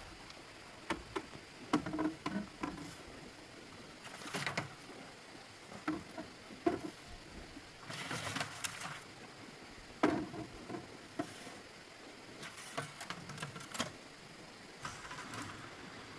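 Irregular light knocks and clicks, with several short rustling or scraping bursts, over a faint steady background hiss.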